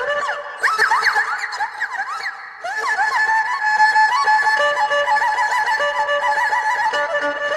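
Erhu solo music with quick pitch slides and trills in imitation of birdsong, with a brief pause about two and a half seconds in.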